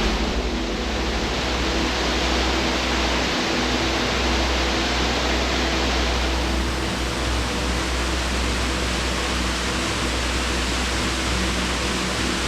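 Waterfall rushing: a steady, loud roar of falling water, swollen after heavy rain.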